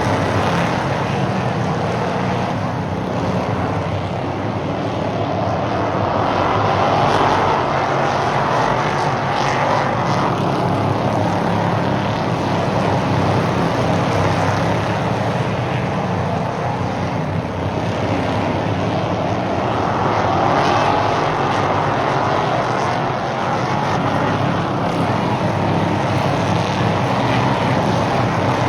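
A field of stock race cars running laps on an oval track, a steady engine drone that swells as the pack comes round and passes, twice, about fourteen seconds apart.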